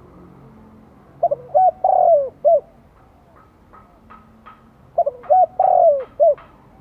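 Spotted dove cooing its calling song: two phrases of a few short coos followed by a long falling coo and a last short one. Between and after them come faint, quick, high chirps, two or three a second.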